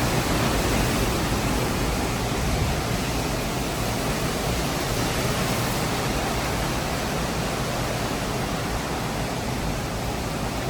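Hurricane wind blowing outside, a steady rushing noise that eases very slightly over the stretch.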